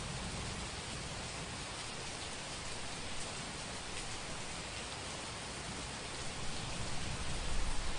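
Steady heavy rain with a hiss of falling drops. A low rumble of distant thunder swells near the end.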